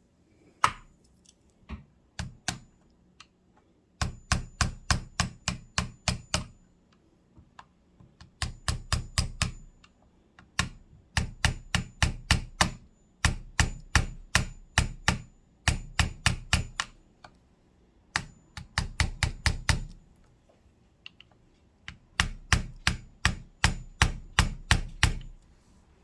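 Quick runs of light hammer taps on a metal part of a Kenmore sewing machine, about four to five sharp taps a second, in bursts of two to three seconds with short pauses between, working the part down into place.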